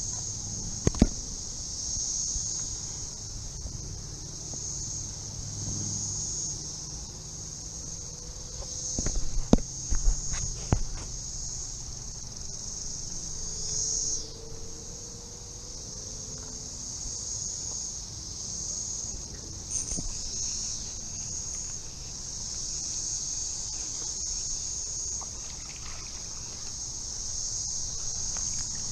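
Chorus of cicadas, a steady high-pitched drone that swells and fades in slow waves. A few sharp knocks come about a second in, and a louder cluster of them follows about a third of the way through.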